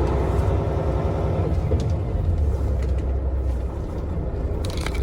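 Volvo semi truck's diesel engine running steadily at low revs, a steady low rumble.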